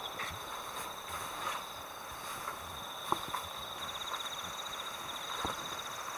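Insects trilling steadily, a high-pitched, finely pulsing trill with a fainter higher one above it, over quiet outdoor background; a couple of faint knocks stand out briefly.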